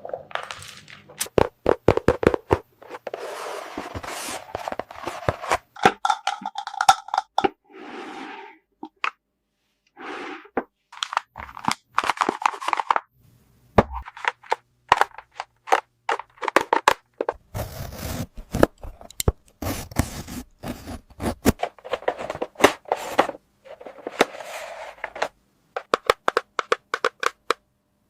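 Small plastic toy pieces handled by hand, making many irregular clicks, taps and short scrapes, with a few brief pitched squeaks.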